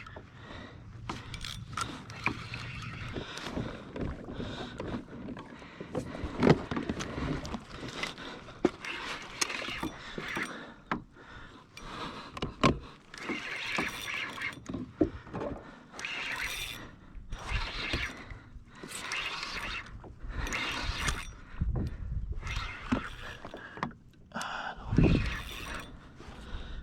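Water sloshing and splashing around a plastic fishing kayak, with irregular swells of noise and many short knocks and scrapes of gear against the hull.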